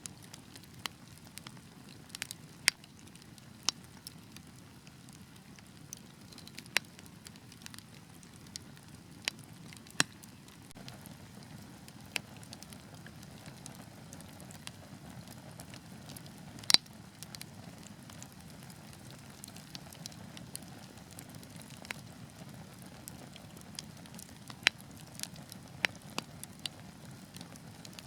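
Wood fire burning with a low steady hiss and rumble, and irregular sharp pops and crackles from the burning logs; the loudest pop comes about two thirds of the way through.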